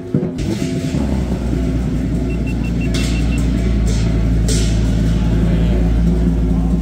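A car engine running with a low, steady rumble that sets in about a second in, with two brief hissy swells in the middle.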